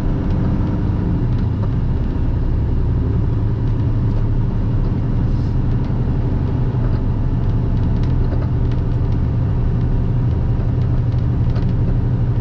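Semi truck's diesel engine and road noise heard from inside the cab, a steady drone as the truck pulls an empty trailer up a long highway grade.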